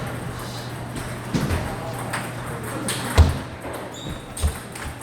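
Table tennis play in a large hall: a few sharp ball hits with low thuds, about a second apart, the loudest about three seconds in.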